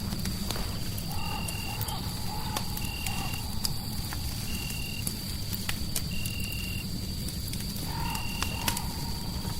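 Crackling fireplace ambience: scattered sharp pops over a steady low rumble. Layered over it are a thin steady high tone and a short, flat, high chirp that repeats about every one and a half to two seconds. A wavering mid-pitched call sounds twice, once about a second in and again near the end.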